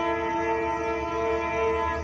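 Nathan K5LA five-chime air horn on a Norfolk Southern EMD SD70ACC locomotive, held in one steady chord that cuts off at the very end. The horn is fouled, so its chord sounds slightly off.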